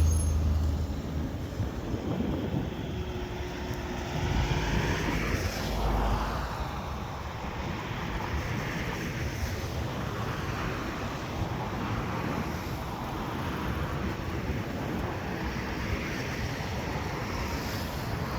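Steady outdoor noise of distant road traffic, with a few swells as vehicles pass, the biggest about five seconds in.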